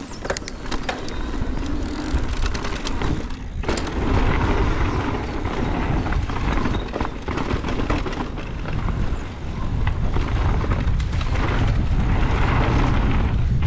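Strong wind buffeting the microphone during a fast mountain-bike descent on a dirt trail, a heavy low rumble that gets louder about four seconds in, with tyre noise and clicks and rattles from the bike over the ground.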